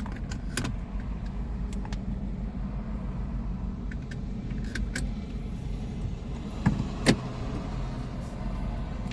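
Steady road and engine rumble inside a moving car's cabin, with scattered light clicks and two sharper knocks a little under seven seconds in.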